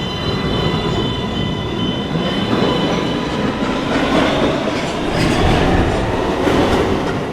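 New York City Subway train running along the platform, a loud steady noise of wheels and motors on the rails, with some clatter in the second half.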